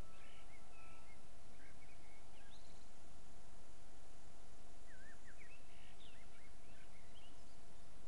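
A songbird singing two phrases of quick, sweeping whistled notes, the first in the opening seconds and the second about five seconds in, over a steady hiss.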